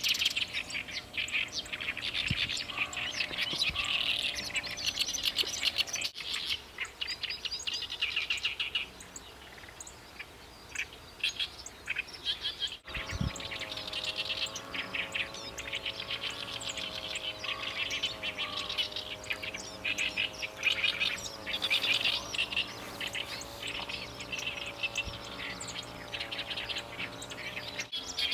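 Chestnut-eared bunting singing, a rapid string of high chirping notes, among other bird calls; the song thins out for a few seconds before the middle. From about halfway a low wavering hum runs underneath.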